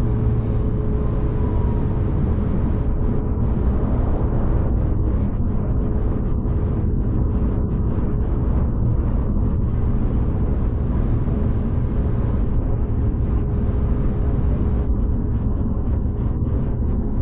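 V/Line passenger train running steadily, heard from inside the carriage: a constant low rumble with a thin steady hum over it.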